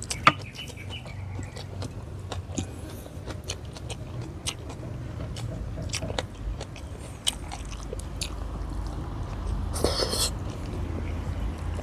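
Close-up eating sounds of a person chewing fish and rice with the mouth, with many small wet clicks and smacks, a sharp click just after the start and a short loud breathy burst from the mouth about ten seconds in.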